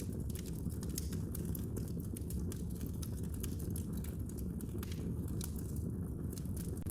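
Wood fire crackling in a fireplace: a steady low rumble of flames with many small sharp pops and snaps throughout.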